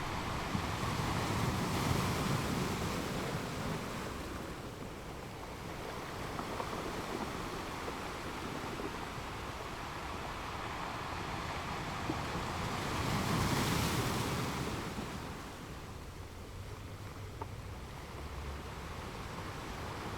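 Ocean waves breaking and washing onto a beach: a continuous rush of surf that swells to a louder breaker about two seconds in and another about thirteen seconds in.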